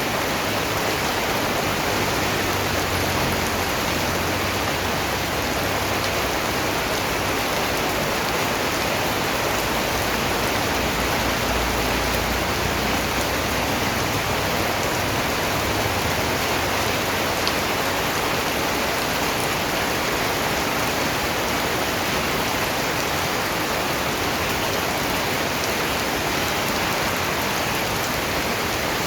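Steady, dense rainfall, drops pattering on a surface as a continuous even hiss.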